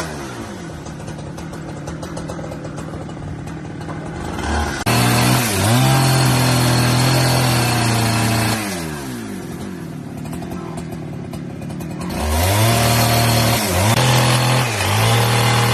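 Two-stroke chainsaw running: it drops to idle, is throttled up to full speed about five seconds in, falls back to idle, then is throttled up again near the end.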